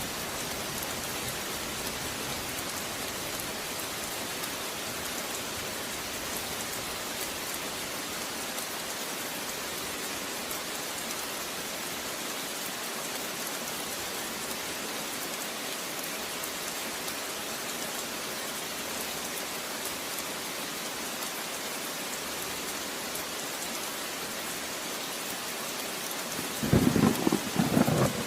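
Steady rain falling, an even hiss. Near the end there is a brief, louder rumble lasting about a second and a half.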